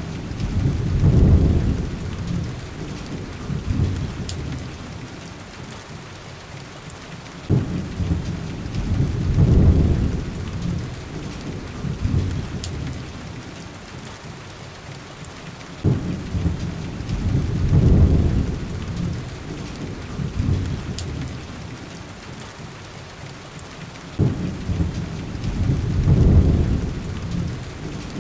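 Heavy rain falling steadily, with deep rolls of thunder that break in suddenly and swell for a couple of seconds, four times, about eight seconds apart. A few faint clicks are heard now and then.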